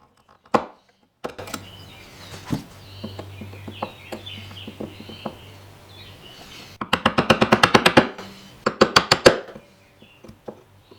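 Hand work on walnut: scattered knocks and small scrapes, then a quick run of sharp wooden taps at about ten a second lasting just over a second, and a shorter run of taps about two seconds later.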